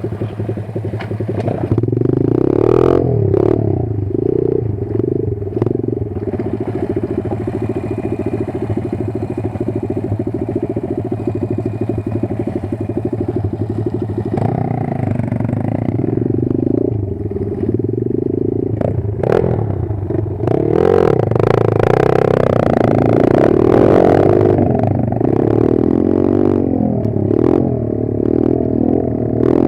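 Kayo 140 pit bike's single-cylinder four-stroke engine running under load, its revs rising and falling repeatedly, especially in the second half. Scattered clattering knocks run through it.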